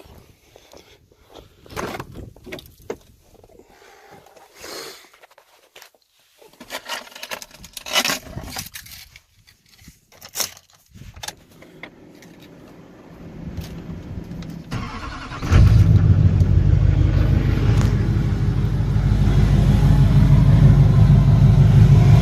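Scattered clicks and rustles, then about fifteen seconds in a 2005 Chevrolet/GMC Duramax LLY 6.6-litre turbo-diesel V8 cold-starts in well-below-freezing weather and settles into a loud, steady idle. The engine is tuned and fully deleted, and it starts easily.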